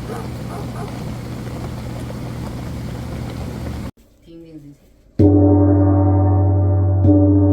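A steady hum and hiss that cuts off abruptly a little past halfway, then a gong struck with a loud, sustained ring of many steady tones, struck again shortly before the end.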